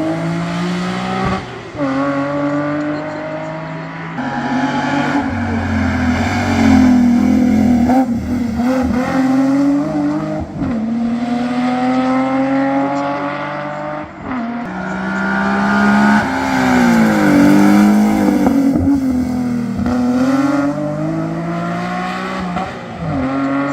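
Historic competition car's engine under hard acceleration up a hillclimb. It revs up and drops in pitch at each gear change several times, with a deeper drop and climb back about two-thirds of the way through as it slows for a bend.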